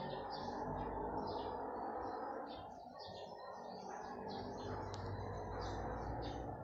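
Small birds chirping repeatedly, several short chirps a second, over a steady low background noise.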